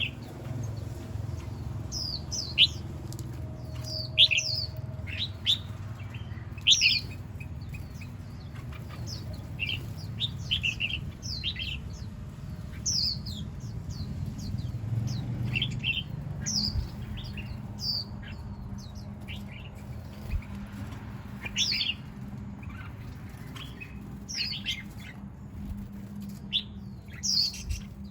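Small birds chirping: many short, high calls that drop in pitch, scattered irregularly and sometimes in quick runs of two or three, over a steady low rumble.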